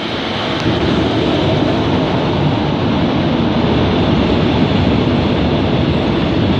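A train passing close by, its wheels rolling on the rails in a steady rush that grows louder about a second in.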